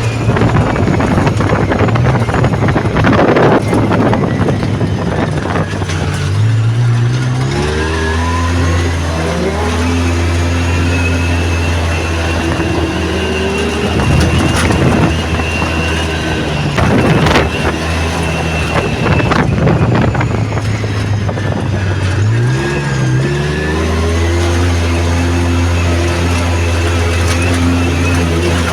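Yamaha YXZ1000R side-by-side's three-cylinder engine driving off-road. The revs climb and step through the gears, then hold steady, with spells of rough tyre and wind noise.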